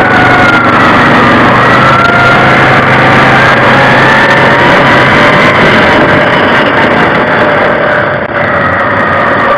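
A vehicle's engine running loud and steady while under way, its pitch drifting slowly up and down with small changes in speed.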